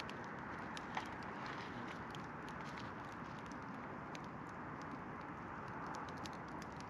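Campfire crackling: a steady hiss with irregular sharp pops, one louder pop about a second in.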